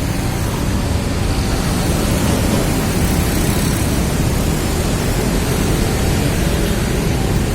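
A train passing close by a level crossing: a loud, steady rumble.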